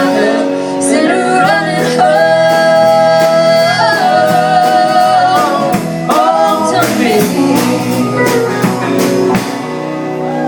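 Live country-bluegrass duet: voices holding long, wordless notes over strummed and picked acoustic guitar, in the song's closing bars.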